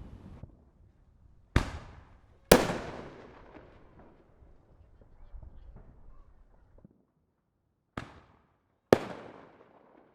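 Fireworks going off around a city: four sharp bangs in two pairs, the second of each pair the louder, each followed by a tail that dies away over a second or so.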